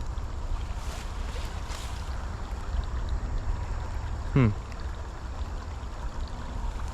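Wind buffeting the microphone in a steady low rumble, over the faint wash of a shallow creek. A short vocal sound with falling pitch comes about four and a half seconds in.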